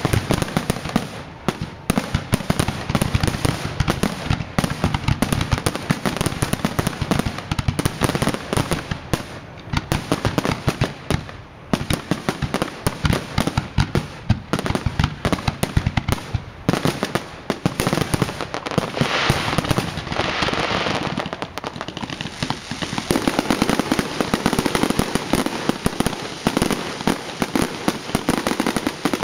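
Fireworks display going off without pause: rapid, overlapping bangs and crackles, with a louder stretch of hissing crackle about two-thirds of the way through.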